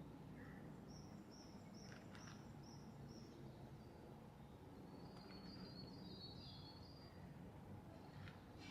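Faint birdsong over a quiet low background hum. A run of about six short high chirps comes about a second in, and a higher twittering trill follows midway through.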